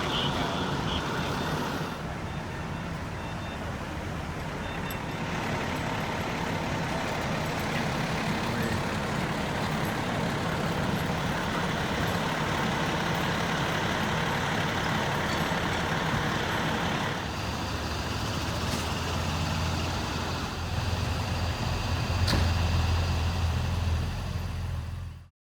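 Street traffic: motor vehicle engines running steadily, with a louder low engine rumble near the end.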